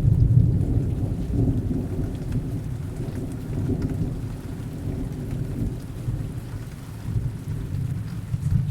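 Thunder rumbling low under steady rain. The rumble is loudest at the start and slowly dies away.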